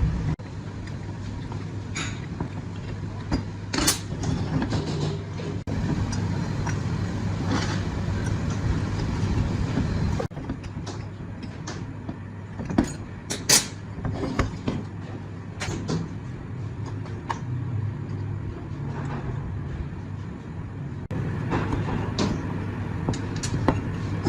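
Workshop work noise: scattered sharp clicks and metal knocks over a steady low hum, broken by several abrupt cuts.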